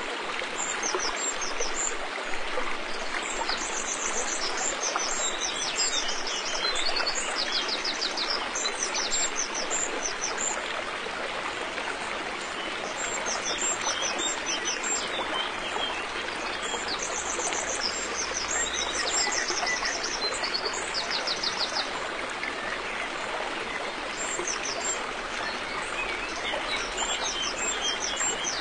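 River water flowing steadily, with small birds chirping high and giving short, quick trills in clusters every few seconds.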